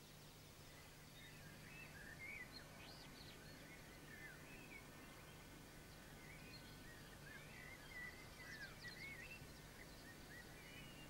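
Faint birdsong: several small birds chirping and warbling, busiest about two seconds in and again around eight seconds, over a low steady hum.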